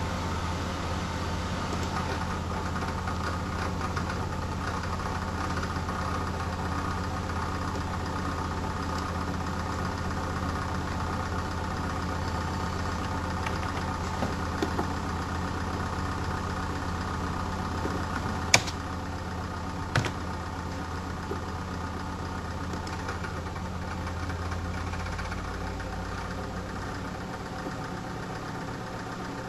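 Radeon X800 XT graphics card cooler in a Medion PC running with a steady low drone that sounds like an idling diesel engine. A few sharp clicks come about 14, 18 and 20 seconds in. The drone eases slightly after the loudest click, and its deepest part drops away near the end.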